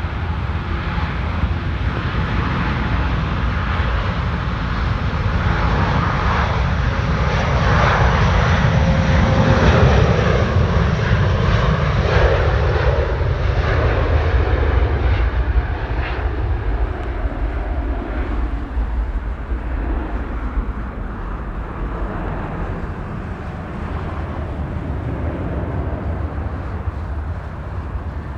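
Airbus A330neo's Rolls-Royce Trent 7000 turbofans at takeoff thrust as the airliner rolls and lifts off past the listener. The jet noise swells to its loudest about ten seconds in, its engine tone sliding down in pitch as it passes, then slowly fades as the aircraft climbs away.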